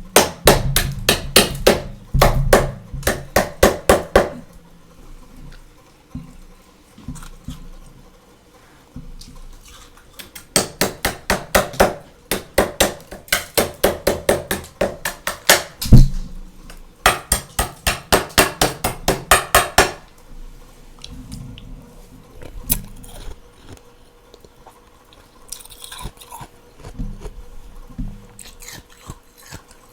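Freezer frost crunching in quick rhythmic runs of about three strokes a second, lasting a few seconds each, with softer scattered crackles between the runs.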